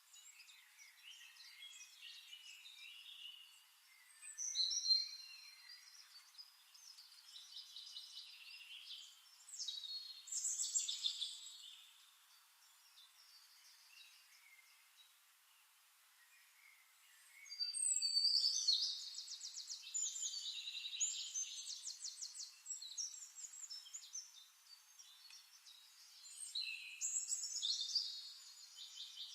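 Birds singing: bouts of chirps and fast trills, loudest about 5 s in, around 10 s, from about 18 to 22 s, and again near the end, with quieter chirping in between.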